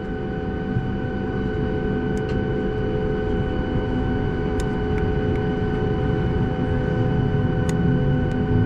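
Boeing 737 MAX 8's CFM LEAP-1B jet engine noise heard inside the cabin: a low rumble with a steady whine on top, growing gradually louder, as the engines are brought up one at a time. A few faint clicks and creaks from the cabin.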